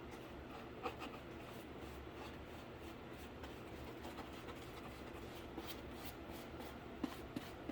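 Quiet scratchy rubbing of a paintbrush working paint onto a cardboard PC case, with a few light clicks.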